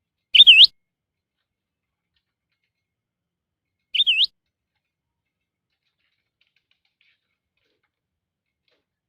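Budgerigar giving two short chirps about three and a half seconds apart, each a quick up-and-down warble; the first is louder.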